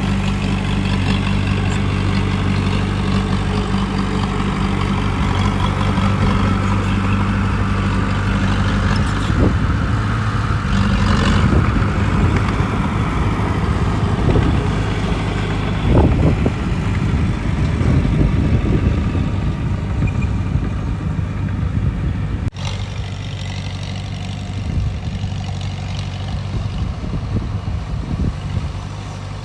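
Heavy diesel earthmoving machinery running steadily, with a low even engine hum, rougher louder stretches and a few knocks in the middle; the sound drops and changes abruptly about two-thirds of the way through.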